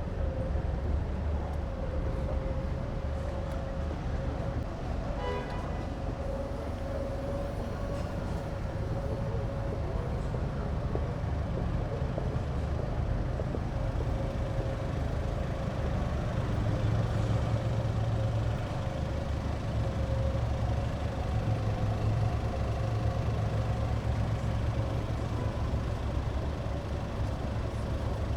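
Street traffic: vehicle engines running with a steady low rumble, a little louder in the second half. A short pitched sound comes about five seconds in.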